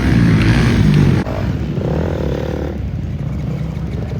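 Dirt bike engine running with its pitch rising and falling as it revs. The sound changes suddenly about a second in, where the high hiss drops away.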